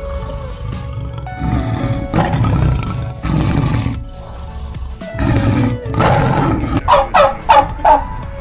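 White tiger growling in three long, rough stretches over steady background music. Near the end comes a quick run of loud, short calls.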